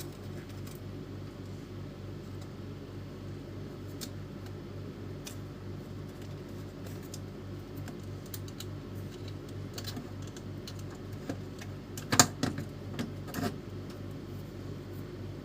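Light clicks and taps of plastic and metal printer parts being handled while an Epson L310 inkjet printer is taken apart to replace its carriage motor, with a short cluster of louder clicks about twelve seconds in. A steady low hum runs underneath.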